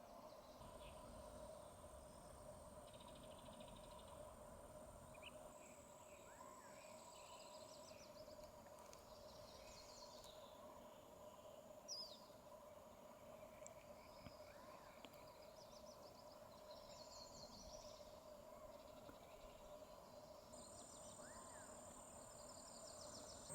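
Very faint desert creek ambience: scattered short calls of small birds and a steady high insect trill that stops and starts, over a low steady hum.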